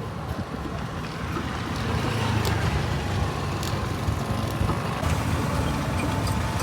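An engine running with a steady low rumble that grows louder about two seconds in.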